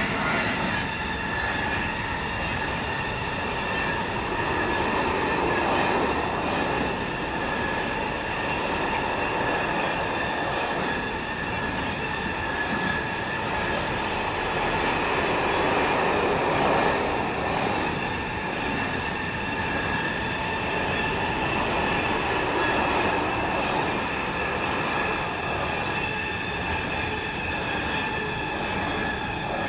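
A train running by on the rails, a continuous rolling rumble with a steady high-pitched wheel squeal over it.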